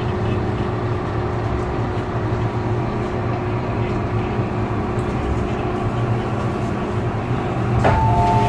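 MTR M-Train electric multiple unit running, heard inside the car: a steady low rumble from the running gear with a steady hum from the traction equipment. Near the end a two-note electronic chime sounds, then repeats.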